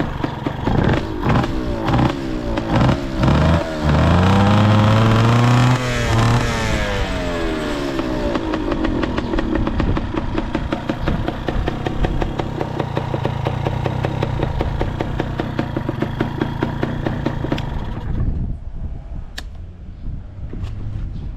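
Kawasaki KSR80's two-stroke single-cylinder engine through an RSV expansion-chamber exhaust, revved in several quick blips, then held at high revs for about two seconds before falling back to a rapid, even idle. The seller describes the engine as quiet and free of abnormal noise. About eighteen seconds in the sound drops away sharply, leaving a fainter low sound and a few clicks.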